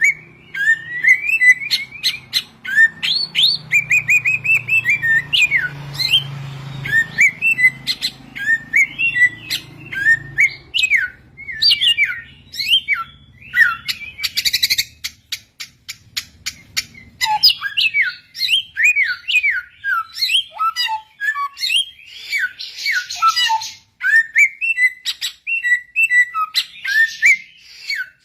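Samyong (garugiwa) song: a fast, varied run of short whistled notes sliding up and down in pitch, broken by a few harsh buzzy notes.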